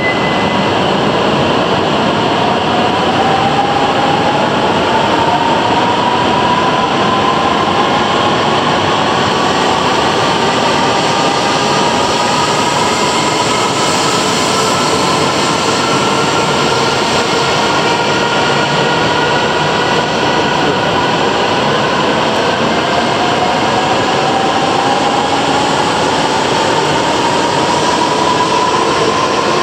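E5/E6 series shinkansen pulling out of an underground platform and gathering speed, with a loud steady rush and a whine that rises in pitch as it accelerates, rising again about two-thirds of the way through.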